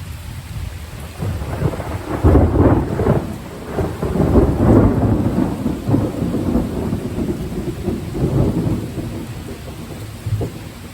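A long roll of thunder over heavy rain. The rumble swells about two seconds in, is loudest for the next few seconds, then rolls on and fades near the end.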